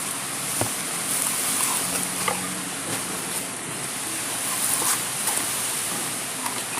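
A steady hiss, with a few faint clicks and taps scattered through it.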